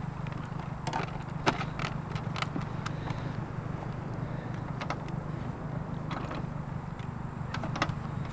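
Steady low hum of an idling vehicle engine, with scattered light clicks and knocks of junk being handled, the sharpest about a second and a half in.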